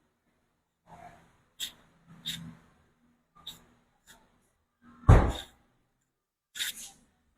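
Handling noises from tools and parts being worked with: a few sharp clicks and knocks, one heavy thump about five seconds in, and another knock near the end.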